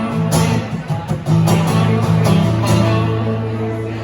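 Guitar strumming the closing chords of a live blues-soul song, then a final chord about two-thirds of the way through that is left to ring and slowly fade.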